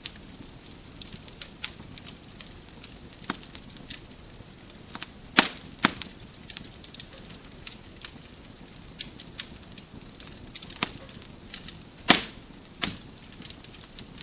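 Wood fire in a fireplace crackling: irregular sharp pops and snaps over a steady soft hiss. A pair of louder snaps comes a little before the middle, and the loudest pop comes near the end.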